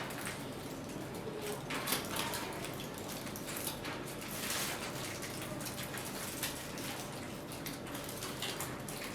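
Quiet eating at a table: scattered soft clicks and rustles from food, wrappers and dishes, with no one speaking.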